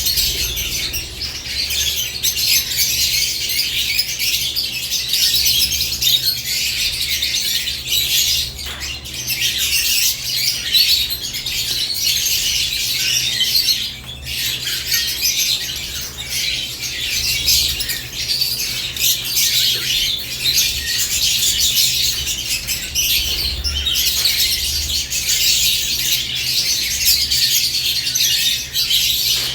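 Caged lovebirds chattering and chirping without pause, many high-pitched calls overlapping into a continuous din.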